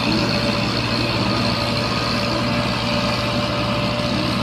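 Tractor's diesel engine running steadily with an even, low throb.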